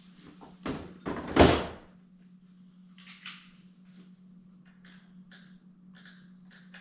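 Three knocks in quick succession, the last and loudest a heavy clunk about a second and a half in, then a few faint light clicks, over a steady low hum.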